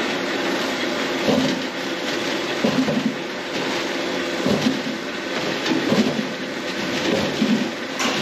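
Packing-house machinery running steadily, with a heavier clatter repeating about every second and a half.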